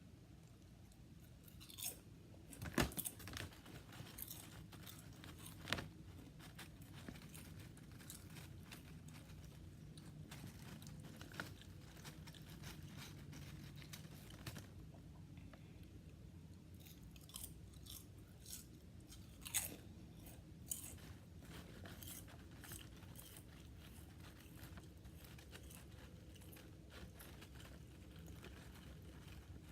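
Close-up crunching and chewing of potato chips, in scattered bursts of crisp crackles with the loudest bites about three seconds in and near the twenty-second mark, over a faint steady background hum.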